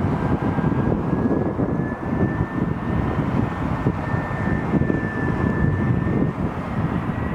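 Jet airliner engines running: a steady rumble with a high whine that slowly rises in pitch.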